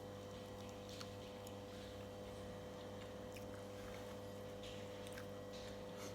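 Faint sounds of eating: quiet chewing with a few small scattered clicks, over a steady low hum.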